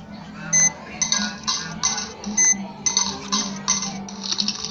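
Water-dispenser button of a toy refrigerator being pressed over and over, a quick series of short plastic strokes about two a second, pumping before any water comes out.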